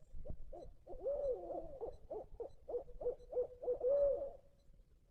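Owl hooting: a rhythmic run of hoots, about three a second, with longer rising-and-falling hoots near the start and near the end. This is the kind of call used as a turkey locator call, to make roosted gobblers answer.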